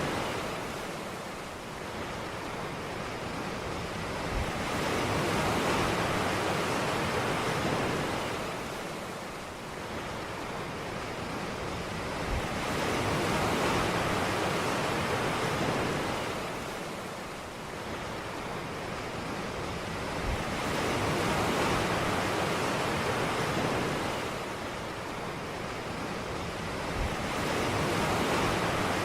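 Ocean surf washing onto a beach, the rush of each wave swelling and fading in a slow cycle about every eight seconds.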